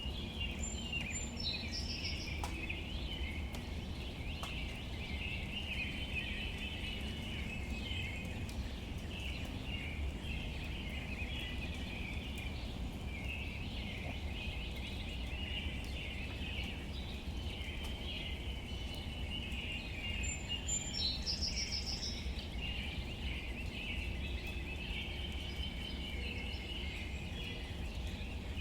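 Outdoor nature ambience: a steady chorus of bird calls over a low rumble. A short, high, rapid trill comes twice, about a second in and again about twenty seconds in.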